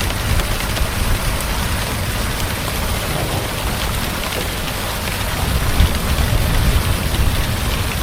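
Heavy rain falling steadily, with a low rumble underneath that swells a little about six seconds in.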